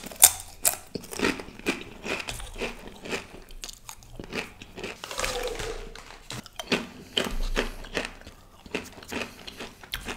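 Crunching and chewing of banana chips: a quick, irregular series of crisp crunches.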